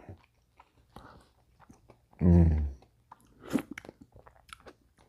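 Close-miked eating of a Brownie Batter Blizzard from Dairy Queen: scattered wet mouth clicks and small crunches as the ice cream is spooned and chewed. A brief hum of the voice comes about two seconds in.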